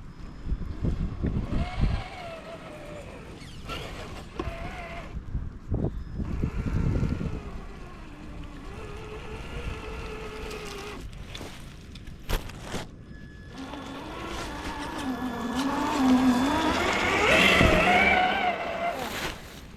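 Electric motor and gearbox of a Traxxas TRX4 1/10-scale RC rock crawler whining, its pitch rising and falling with the throttle as it climbs. The whine gets loudest near the end.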